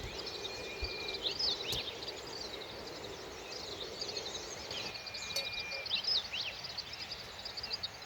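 Birds chirping and calling: many quick high chirps, two long even whistled notes and a few fast up-and-down sweeps, over a steady background hiss.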